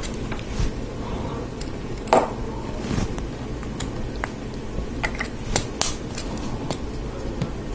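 Small plastic Lego Technic pieces clicking and tapping as they are handled and pressed together, with a louder knock about two seconds in, over a steady low hum.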